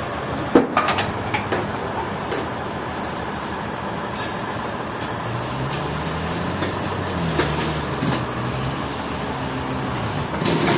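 A heavy engine running steadily, its pitch rising and falling for a few seconds past the middle, with scattered clicks and knocks over it.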